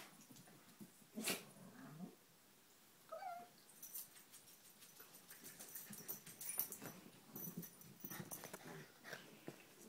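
Dogs playing: low growling and scuffling, with a sharp knock about a second in and a short high yelp about three seconds in.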